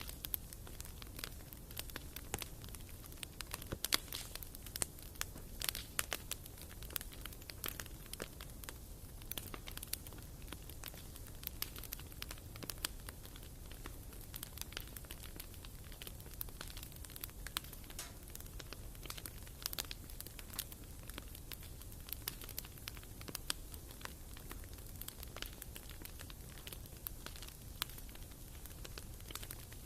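Firewood burning in a fireplace, crackling with frequent irregular sharp pops over a low steady rush of the flames.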